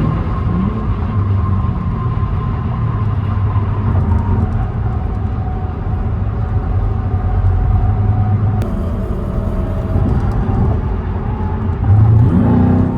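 V8 car engine and exhaust running steadily under way, with a low rumble. About twelve seconds in, the revs start to climb as it accelerates.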